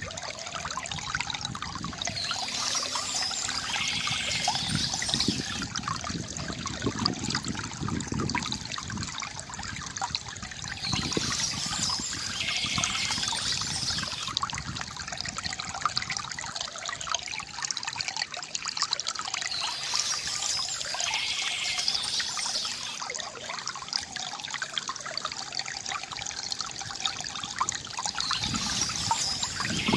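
Water trickling and gurgling steadily from a bamboo fountain. A brighter, hissier stretch comes back about every nine seconds.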